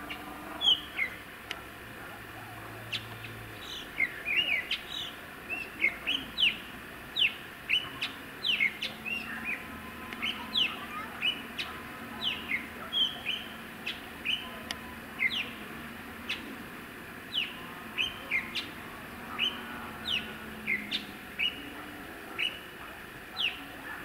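A small songbird calling repeatedly: short, sharp chirps that each drop quickly in pitch, one or two a second throughout.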